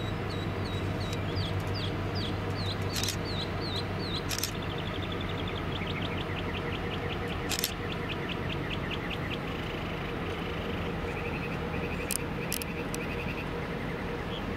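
Songbirds singing, series of quick repeated chirps and short trills, over the steady low rumble of a Norfolk Southern diesel locomotive idling; a few sharp clicks come through now and then.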